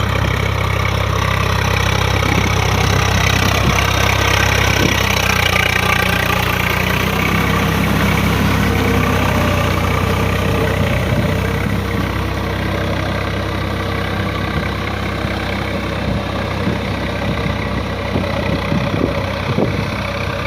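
Swaraj 744 FE tractor's three-cylinder diesel engine running steadily, its pitch shifting slightly about a third of the way in.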